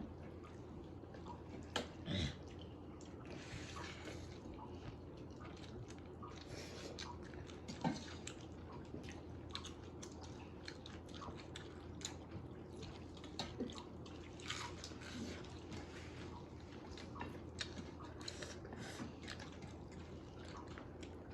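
People chewing and eating a meal close to the microphone, with many small wet smacks and clicks, and a few louder knocks about two seconds in and again near eight seconds in.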